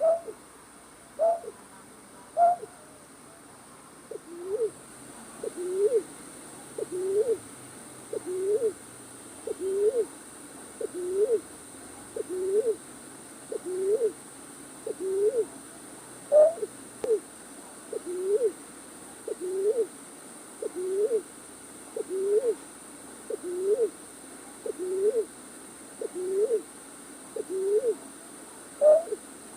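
A night bird's short, rising hooting calls, repeated over and over as a trapping lure call: a few slower, higher notes at first, then a quick steady run of about one note every 0.7 s.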